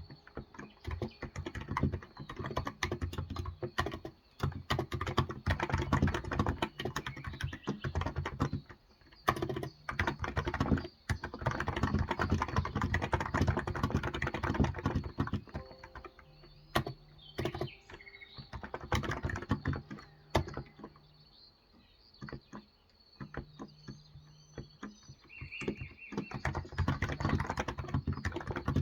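Typing on a Cox Endeavour tenkeyless electrocapacitive (Topre-style) keyboard with 35 g keys. Fast runs of keystrokes are broken by short pauses, with a longer lull past the middle before a last run near the end.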